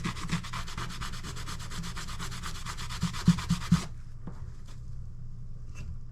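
Kitchen knife blade stroked back and forth on a sharpening stone in rapid, even scraping strokes. A few louder knocks come just before the strokes stop abruptly about two-thirds of the way in, followed by a few faint clicks.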